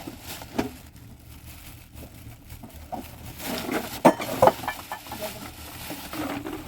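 A few sharp knocks at uneven intervals, the loudest pair about four seconds in.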